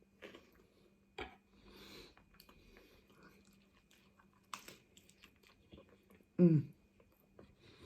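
A person chewing and biting food close to the microphone: soft wet mouth sounds and small clicks. A short hummed vocal sound, falling in pitch, comes about six and a half seconds in.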